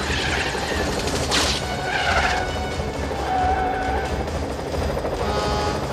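Police helicopter's rotor chopping steadily in a film action-scene mix. There is a sharp crack about a second and a half in, and wavering high-pitched squeals over the first few seconds.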